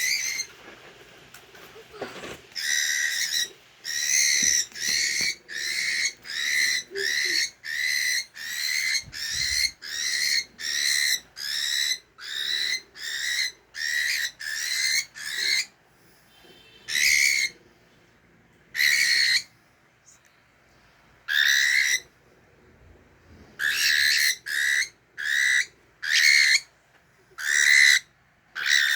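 Cockatiel calling over and over: loud, repeated shrill calls, each about half a second, in a fast run of more than one a second. After a pause in the middle come a few spaced-out calls, then a quick run again near the end.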